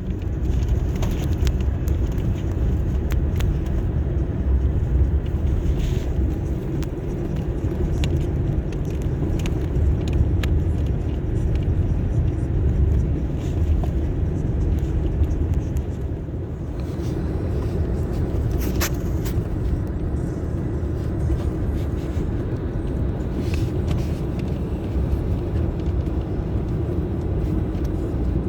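A vehicle engine running steadily with a continuous low rumble, with scattered light clicks and rattles over it.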